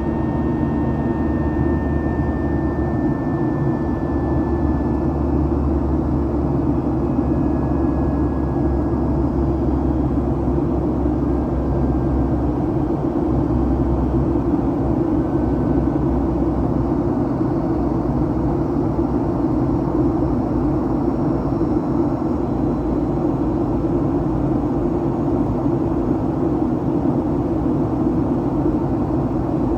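Steady cabin noise inside a Boeing 737-800, a constant drone of airflow and its CFM56 jet engines. Faint high whines slowly fall in pitch over the first several seconds.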